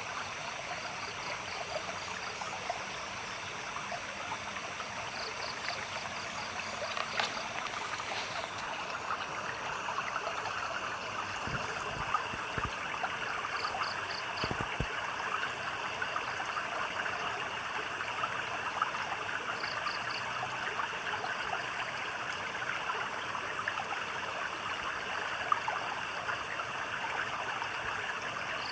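A stream of trickling, splashing water runs steadily. Short bursts of high, rapidly pulsed chirps from a night animal come every few seconds over it.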